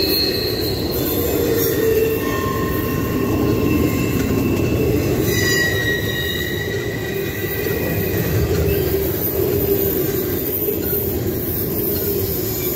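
Double-stack intermodal freight train rolling past at close range: a steady rumble of wheels on rail, with thin, high wheel squeals coming and going, the strongest about halfway through.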